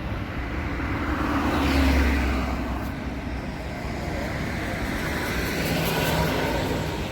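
Road traffic going by: one vehicle passes loudest about two seconds in, and another swells up around six seconds.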